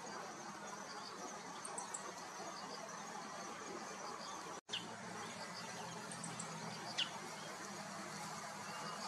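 Meadow bunting giving short, high, clear notes, with one sharp downward-slurred note about seven seconds in, over a steady faint background hiss. The sound drops out for an instant about halfway through.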